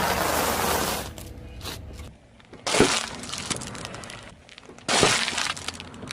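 Brittle objects crushed under a car's tyre, crunching and shattering three times with a glassy breaking crackle after each crunch.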